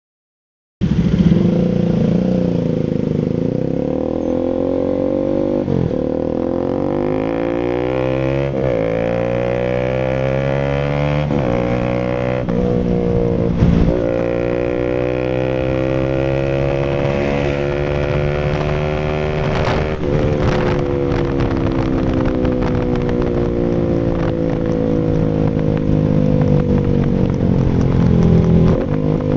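Rouser RS200's single-cylinder engine through an SC Project full exhaust. It runs under load, its pitch climbing and then dropping sharply several times as it shifts up through the gears, and later easing down in a long, slow fall, with a few sharp crackles partway through.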